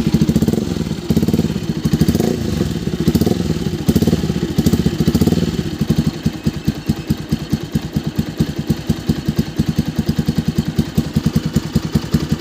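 Bajaj Pulsar NS200's single-cylinder four-stroke engine running through an aftermarket Akrapovic-style exhaust, just after starting. For the first half it runs unevenly with the revs rising and falling, then it settles into an even idle of about eight distinct exhaust pulses a second.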